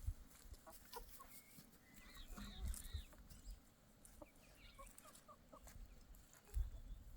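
Chickens clucking faintly in scattered short calls, with a low rumble near the end.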